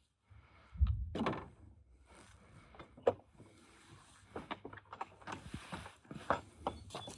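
Tools and parts being handled during car repair work: a low thud about a second in, then scattered metallic clicks, taps and knocks.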